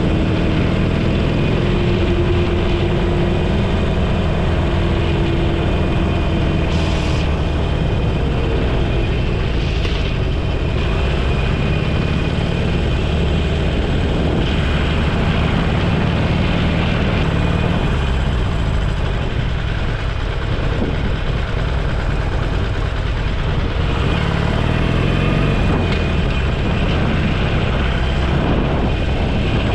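Motorcycle engine running under way, mixed with steady wind and road noise; the engine note shifts a little in pitch in the first several seconds.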